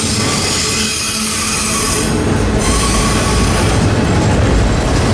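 CSX double-stack intermodal freight train passing close by: a loud, steady rumble of container well cars rolling over the rails. The low rumble grows heavier about two seconds in.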